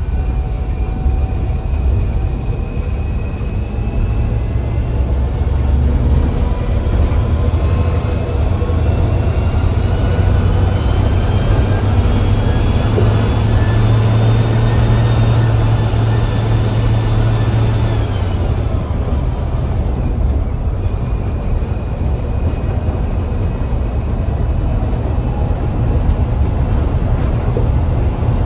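Mercedes-Benz bus diesel engine pulling under load, heard from the driver's cabin, with a turbocharger whistle over the low engine rumble. The whistle climbs slowly in pitch for most of the stretch, cuts off about two-thirds of the way through, and then starts rising again.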